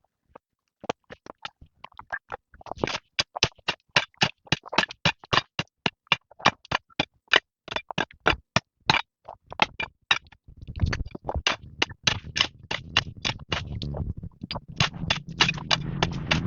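A rapid series of sharp knocks, about four a second, starting about a second in. A steady low hum joins them about ten seconds in.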